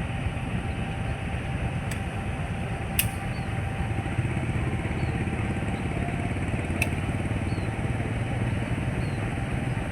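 Train's diesel engine running steadily, with a few sharp metallic clicks.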